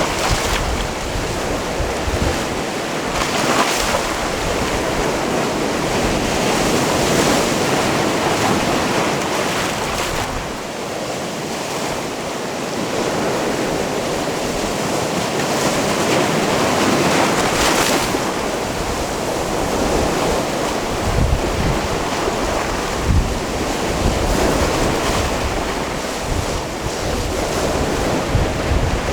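Sea waves washing onto a rocky shore, the surf swelling and falling every few seconds, with wind buffeting the microphone in low rumbling gusts, strongest in the second half.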